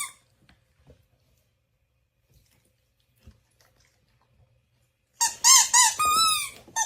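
An animal's high-pitched squeaky calls, about five short ones in quick succession starting about five seconds in, the longest falling in pitch. Before them there are only a few faint small knocks.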